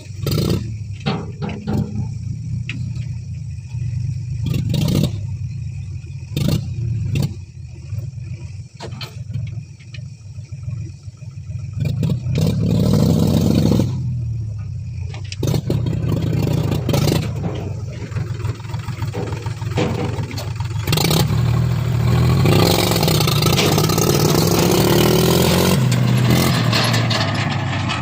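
Heavy diesel machinery working: the engine drones steadily and revs up under load twice, once about twelve seconds in and again for several seconds near the end. Sharp metallic knocks and clatter sound over it, mostly in the first half.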